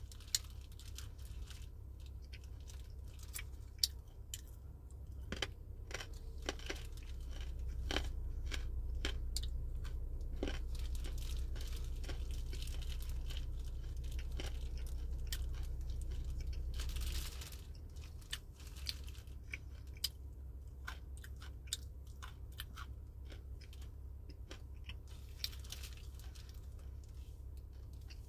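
A person chewing crunchy food close to the microphone, with many short crisp crunches. Under it runs a low rumble that swells about a quarter of the way in and drops away abruptly a little past halfway.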